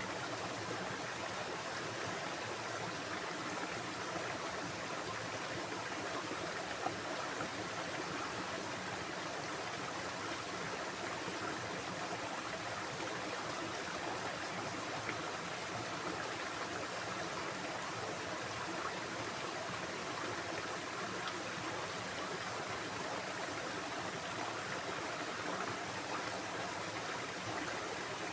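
Stream water flowing steadily, an even, continuous rushing with no breaks.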